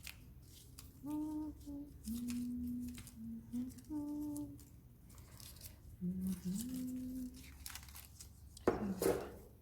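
A person humming a few held, low notes of a tune, with light rustling and crinkling of paper between them and a louder paper rustle near the end.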